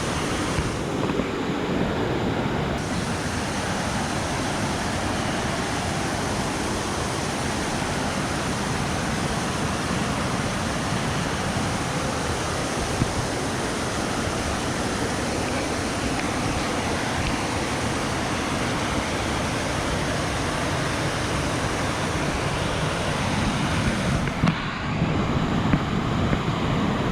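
Steady rush of river water pouring over rocks at a waterfall, an even noise with no let-up. A few louder knocks and rustles near the end.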